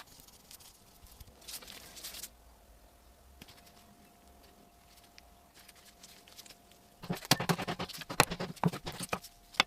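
Faint light taps at first, then a quiet stretch with a faint steady tone, and near the end about two seconds of rapid, sharp knocks and clicks, as of hard objects striking one another.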